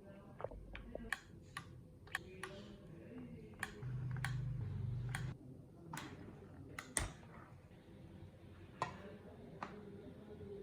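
Irregular sharp clicks and taps of small hard parts and tools being handled, with a steady low hum lasting about a second and a half near the middle.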